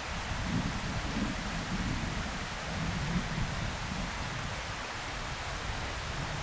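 Steady outdoor hiss with wind buffeting the microphone, swelling into low rumbles now and then.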